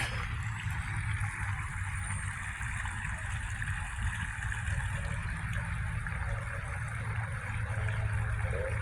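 Steady outdoor background noise: a low rumble with an even hiss above it, unbroken throughout.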